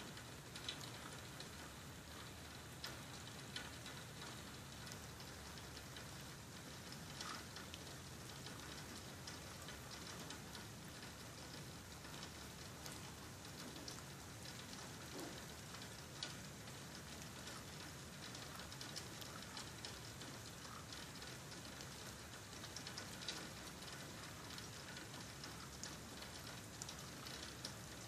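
Steady, faint rain falling, with scattered sharp ticks of drops striking nearby.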